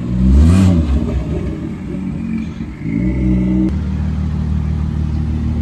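Car engine revved once, rising and falling within the first second, revved again near three seconds, then idling steadily.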